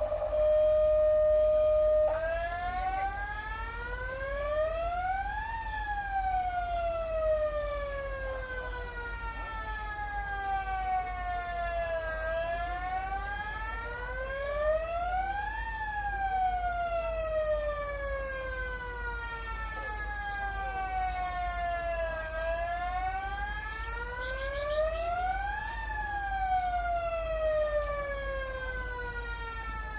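Electronic siren: a loud steady tone for about two seconds, then a slow wail that rises and falls about every ten seconds, over a steady low hum.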